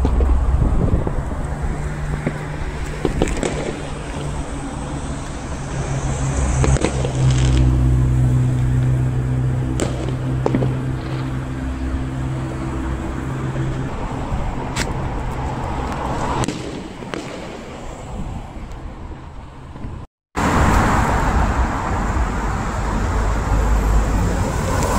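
Scattered firework bangs over heavy road traffic, with a vehicle engine's steady low hum through the first half or so. The sound cuts out briefly about twenty seconds in.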